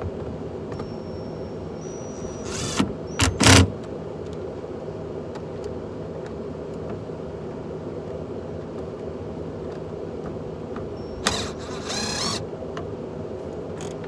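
Pickup truck engine idling steadily, with two short bursts of clunks and whirring, about three seconds in and again about eleven seconds in, from work on the door's power window.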